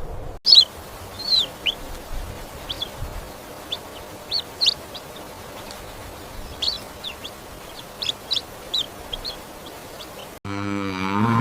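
Many short, high chirps from birds, irregular and often sliding down in pitch. Near the end a loud, low mooing call cuts in, falling in pitch.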